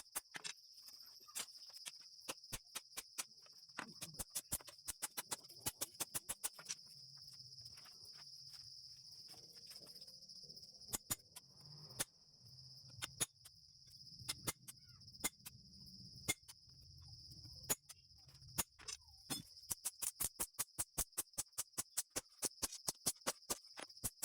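Steady high-pitched insect chirring, with a run of sharp taps that are the loudest sounds and come several a second in the last few seconds, and a low hum through the middle.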